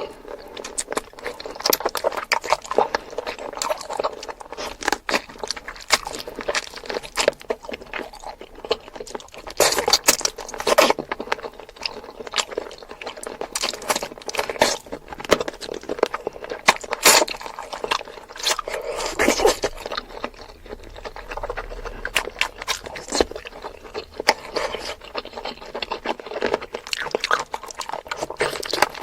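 Close-miked eating sounds from a meal of bakso meatballs and spicy chicken feet: wet chewing and mouth smacks with many irregular sharp clicks.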